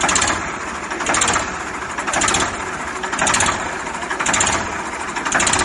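An engine running steadily, with a brighter hissing surge repeating about once a second.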